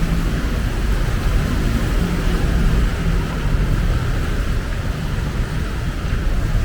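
Steady city street noise: a deep, even rumble of traffic with a lighter hiss above it and no distinct events.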